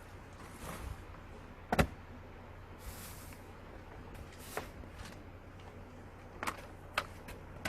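A few sharp knocks and clanks, the loudest about two seconds in and three more in the second half, over a steady low hum.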